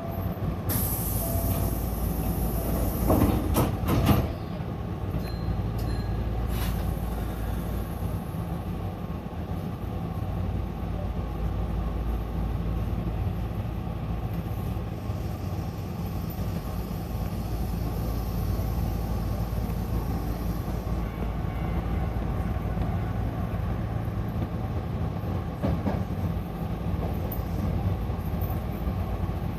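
Hankyu electric commuter train starting off from a station and running: a hiss of air about a second in and a few sharp knocks around three to four seconds in, then a steady rumble of motors and wheels on the rails.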